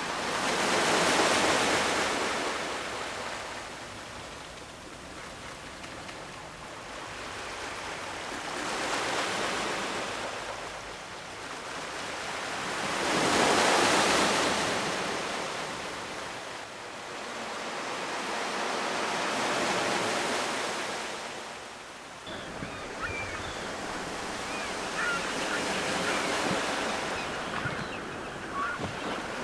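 Ocean waves washing onto the shore, the surf swelling and fading every several seconds, with about four larger surges; after about 22 s the wash turns steadier and lower, with a few faint high ticks.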